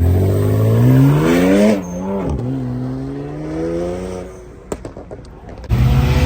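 A car accelerating hard past the camera with a loud exhaust. Its engine note climbs for about two seconds, drops at an upshift, then holds and fades as the car pulls away. Near the end another loud, steady engine note comes in.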